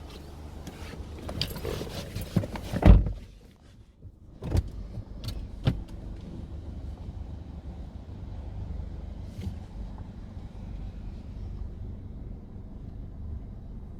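Knocks and clicks, then a loud thump about three seconds in, as of a car door shutting. A car's engine then runs with a steady low rumble.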